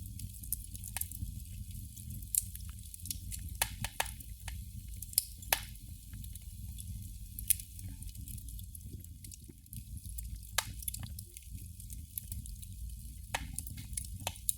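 Candle flame crackling: irregular sharp pops and ticks, a handful of them louder, over a steady low rumble.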